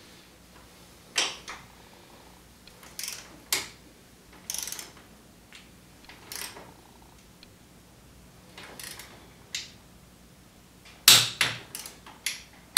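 Ratchet wrench worked in short strokes on a suspension bolt, the pawl clicking in brief bursts with each return stroke, with a cluster of louder metal clicks and clanks near the end.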